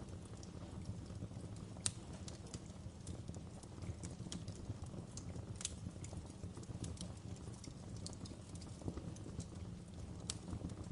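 Wood log fire burning in a fireplace: a steady low rumble of the flames with irregular sharp crackles and pops, the loudest about two seconds in.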